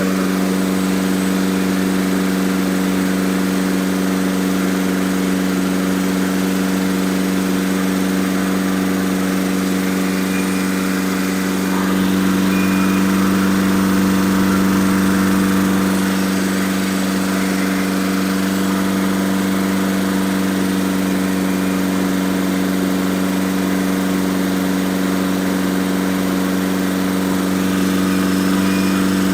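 Engine running steadily during the break-in of its new camshaft, an even pitched hum that swells slightly in level for a few seconds around the middle.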